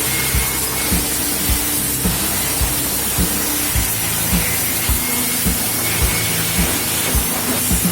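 High-pressure water spray hissing steadily as the engine is washed, under background music with a steady beat of about two thumps a second.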